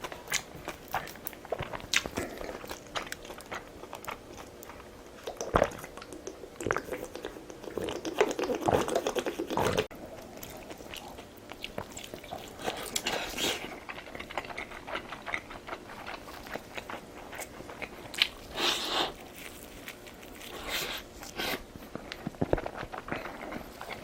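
Close-miked eating sounds: a person biting and chewing food, with many small crunching and clicking mouth noises, densest about a third of the way in.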